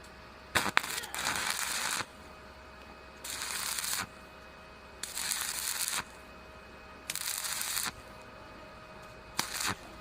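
Electric arc welding on steel pipe: the arc is struck and held in five short crackling bursts of about a second each, with pauses between, as in stitch or tack welding. A faint steady hum runs underneath.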